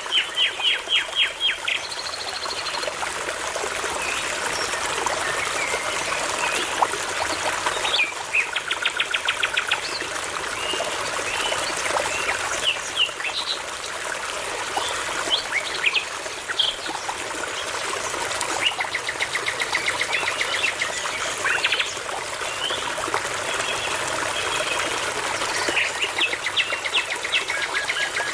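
Songbirds singing over the steady rush of a babbling brook, with several bursts of fast, evenly repeated notes.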